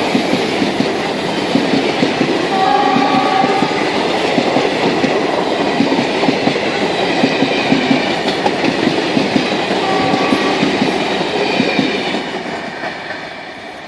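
Indian Railways train running by with a rapid, dense clatter of wheels over the rails. Brief horn tones sound about three seconds in and again about ten seconds in, and the sound fades away near the end.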